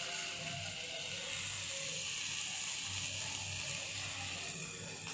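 A stuffed frankie sizzling on a hot iron tawa as it is rolled over and brushed with a basting brush: a steady frying hiss, with a faint low hum pulsing underneath.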